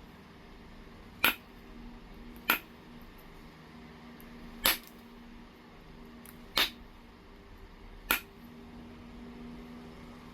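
Low-grade heat-treated Oregon jasper being knapped: five sharp clicks, one every second or two, as flakes come off the stone.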